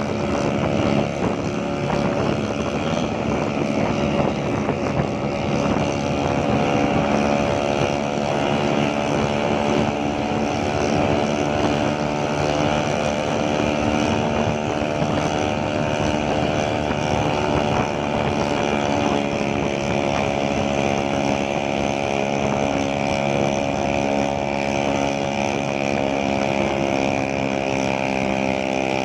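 Vespa scooter engine running steadily under way, its pitch holding with only a slight drift partway through, with some wind on the microphone.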